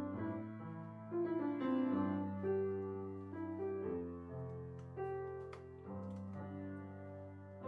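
Background piano music, slow and gentle, with held chords and a simple melody.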